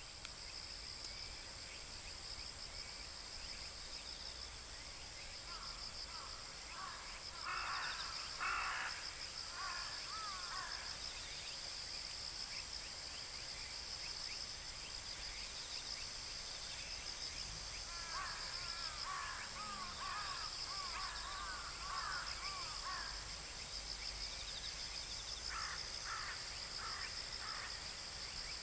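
A steady, high insect chorus of chirring insects, with birds calling in short bursts of quick notes a quarter of the way in, again around two-thirds through, and briefly near the end.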